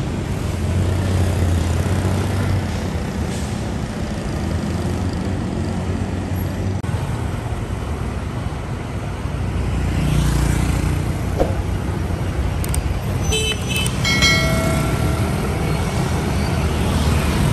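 Street traffic: motor vehicles running and passing with a steady low rumble, and horns honking briefly twice about 13 to 15 seconds in.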